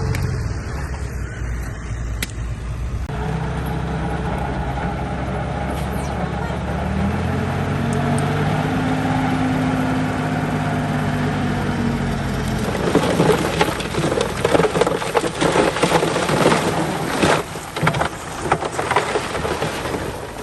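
Bulldozer's diesel engine running at work, its pitch rising and holding for a few seconds partway through, then easing. From about two thirds of the way in comes a run of irregular knocks and clatter, like tracks and blade grinding through dirt and stone.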